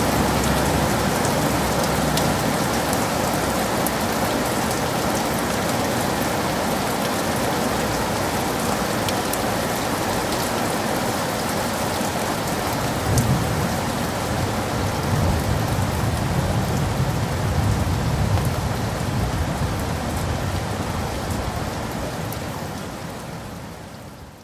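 Heavy rain falling steadily in dense patter, with a low rumble of distant thunder rolling through the middle. The whole sound fades out near the end.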